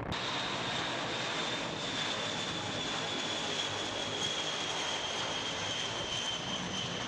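Jet aircraft engines running: a steady rush with a thin, high whine that slowly falls in pitch.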